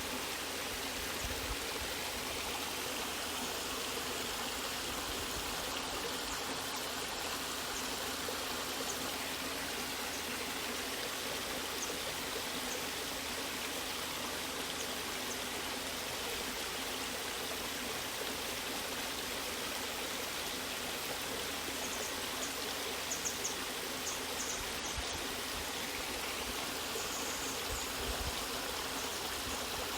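Waterfall and stream water rushing steadily, with a few faint high clicks about three quarters of the way through.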